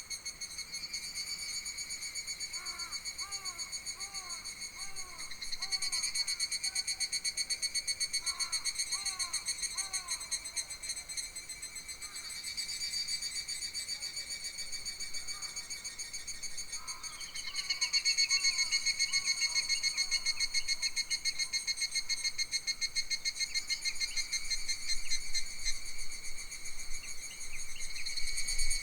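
Summer forest insects trilling in a steady, high, fast-pulsing chorus that swells louder a few times. A bird calls over them in three short runs of repeated curved whistled notes.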